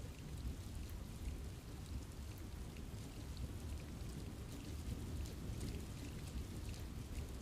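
Steady rain falling in a forest, with many separate drops pattering on leaves over a low continuous rumble.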